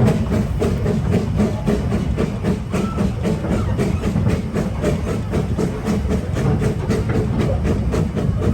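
Two-foot-gauge steam locomotive running, with a rapid, even beat and hissing over a low rumble.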